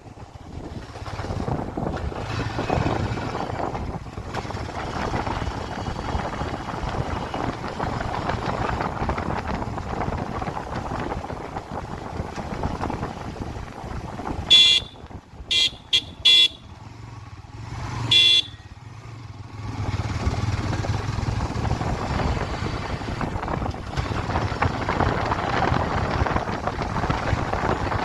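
Motorcycle riding noise, a steady mix of engine and wind on the road. About halfway through, a vehicle horn gives a quick run of short honks, then one more about two seconds later.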